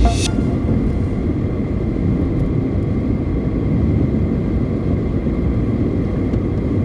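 Steady road and engine noise of a car driving on the highway, a low even rumble with no breaks.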